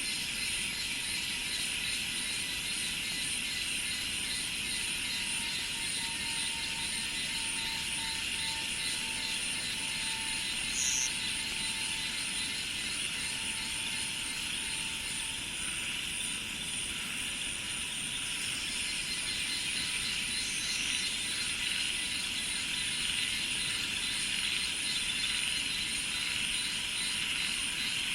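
Steady, dense chorus of insects buzzing and trilling in rice fields. A couple of short high chirps stand out, one about a third of the way in and one about two-thirds in.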